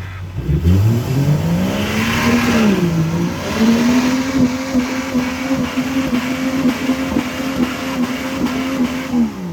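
Off-road truck engine revved hard during a mud slough race run: the revs climb, dip briefly, then hold high and steady for about five seconds before dropping off sharply near the end, over a loud rushing noise.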